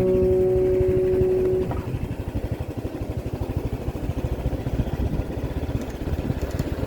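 The last strummed acoustic-guitar chord of the background song rings out and fades within the first two seconds. After it, a vehicle engine runs with a fast, even throb.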